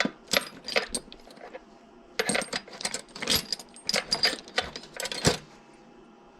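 Small metal parts clinking and rattling against each other and a hard surface: a run of sharp, ringing strikes with a short pause about two seconds in.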